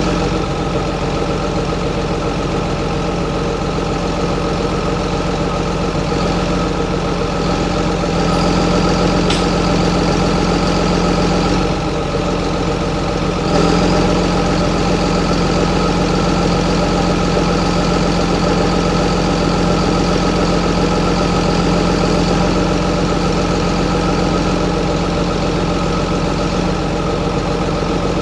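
John Deere 7920's 8.1-litre six-cylinder diesel engine running steadily, with a brief dip about twelve seconds in before it picks up again slightly louder.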